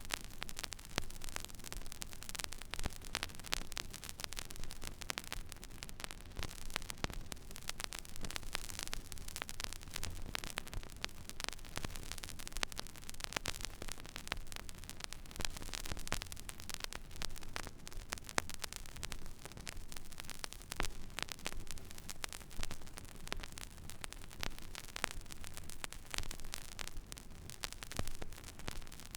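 Stylus running in the empty, silent groove of a vinyl record: steady surface hiss with dense crackles and pops, over a low hum.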